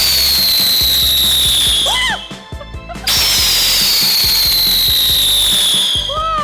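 Ladybug fireworks going off: two loud whistles over a rushing hiss, each sliding slowly down in pitch for about three seconds, with a short gap between them.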